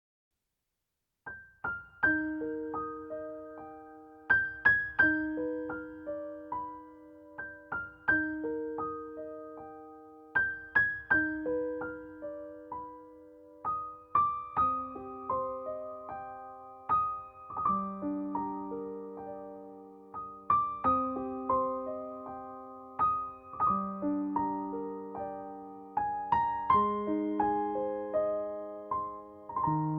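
Background music: a slow, gentle piano or electric piano melody, struck notes ringing and fading, starting about a second in.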